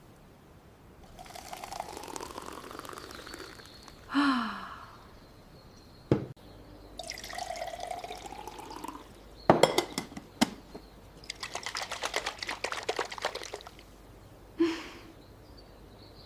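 Liquid poured into a cup twice, its pitch rising each time as the cup fills, among short knocks and clinks of kitchenware and a stretch of rattling.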